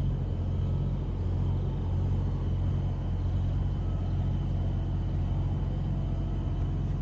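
Daikin mini-split outdoor unit running with a steady low hum during a pump-down: the high-side valve is closed and the compressor is drawing the refrigerant back into the unit. It still sounds like normal operation, with no unusual compressor noise.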